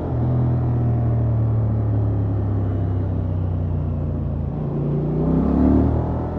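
Honda XL750 Transalp's parallel-twin engine running through its stock exhaust while riding, holding steady revs. About five seconds in it revs up briefly, then the pitch falls again near the end.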